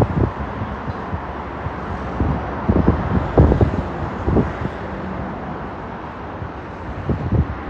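Wind buffeting the microphone in irregular gusts, over a steady rushing noise.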